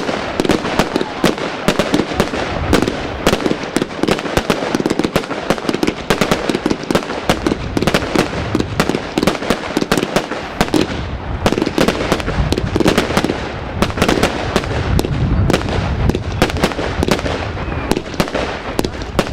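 Bonfireworks 'Outrageous' firework going off: a dense, unbroken string of rapid bangs, with a deeper rumble building from about eight seconds in.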